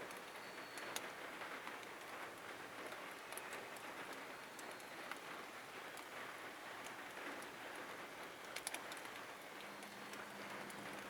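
Light rain falling, a faint steady hiss with scattered small drop ticks.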